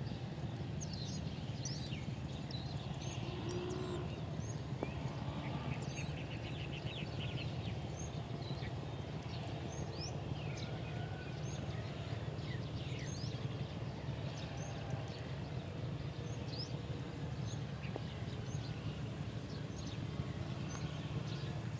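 Small birds chirping in short, high calls scattered throughout, with a quick trill about six seconds in, over a steady low background rumble.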